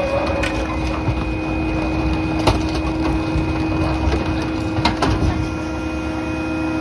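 Pak-Mor rear-loader garbage truck running with its packer working, a steady engine and hydraulic whine, while debris cracks and snaps as it is crushed. The loudest crack comes about two and a half seconds in, and more come near five seconds.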